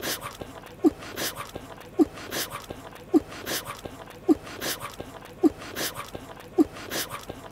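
Anime chewing sound effect of a mouthful of pie, repeating about once a second: each cycle is a short low note followed by wet munching noises.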